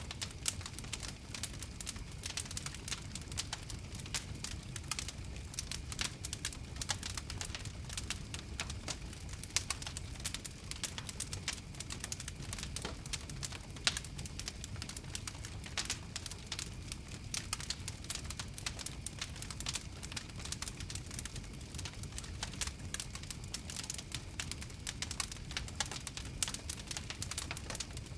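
Wood fire crackling: many irregular sharp pops and snaps over a steady low rush of burning.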